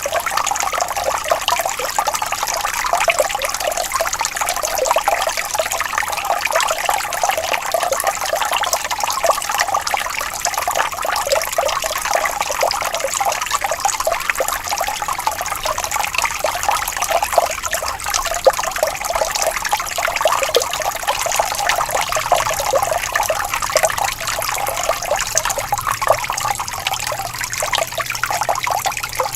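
Shallow stream water trickling and babbling steadily over stones.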